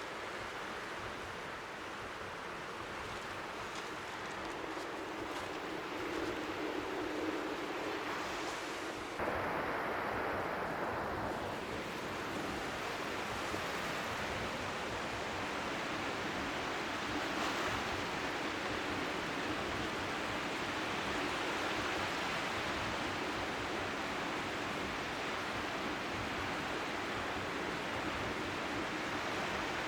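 Strong wind rushing over the shore with faint waves lapping underneath, a steady white-noise-like hiss. It gets suddenly louder about nine seconds in.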